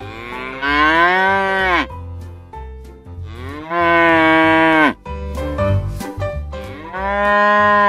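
Cattle mooing: three long moos, each about a second and a half, their pitch rising slightly and then dropping as each call ends.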